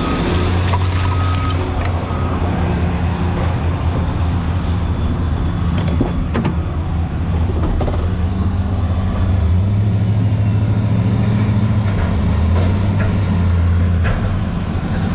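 Heavy vehicle engine running steadily, its low drone swelling for a few seconds past the middle, with a few scattered knocks and clatters.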